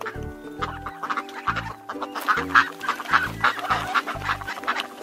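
Ducks quacking in a rapid series of short calls, busiest in the middle, over background music.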